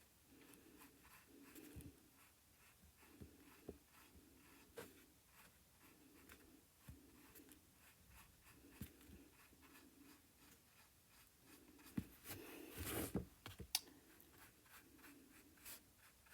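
Faint, repeated swishing strokes of a small paintbrush laying acrylic paint onto canvas, with scattered light clicks and taps. About twelve seconds in comes a louder, brief scrubbing with a few sharp clicks.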